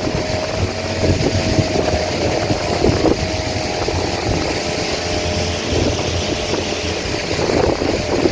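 Boat motor running steadily while the boat is underway.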